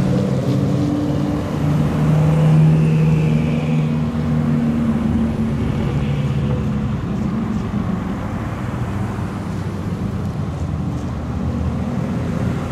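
Several supercar engines running at low speed as the cars roll slowly past in a line: a low steady drone with small shifts in pitch, a little louder two to four seconds in.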